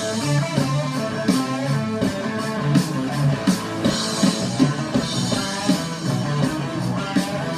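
Rock music: a guitar riff over a drum kit.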